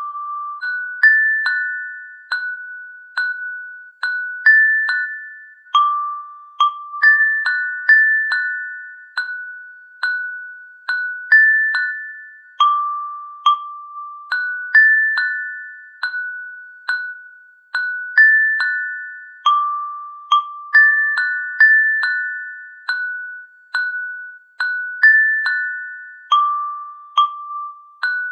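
Slow, gentle melody of bell-like struck notes on a glockenspiel-type instrument, one note about every half second to second on a handful of pitches, each ringing out and fading. No rain sound is audible under it.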